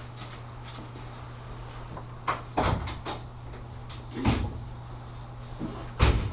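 Clunks and knocks of the train's cab door and latch being worked: a quick cluster of knocks a little over two seconds in, another thud around four seconds, and the loudest bang near the end. Under them runs the steady low hum of the stopped train's equipment.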